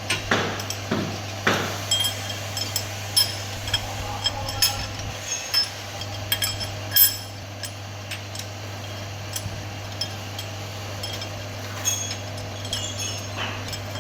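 Metal tools and engine parts clinking and tapping against each other in irregular strikes, the loudest about seven seconds in, over a steady low hum.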